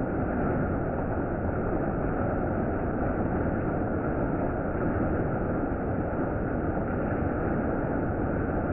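Heavy monsoon rain falling, a steady, even hiss with no breaks or claps of thunder.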